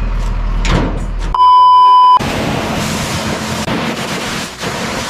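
A single loud, steady electronic beep lasting under a second, about a second and a half in. Before it comes a low hum with a rising whoosh; after it, a steady hiss.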